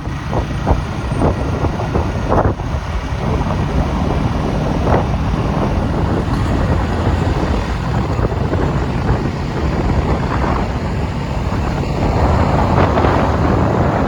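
Riding a Bajaj NS200 motorcycle at speed: wind buffets the microphone over a steady low drone of engine and road noise, getting a little louder near the end.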